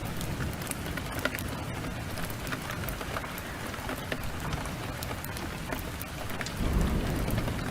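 Heavy rain falling steadily, with the sharp pops and crackles of a wood fire scattered through it, and a low rumble of thunder swelling near the end.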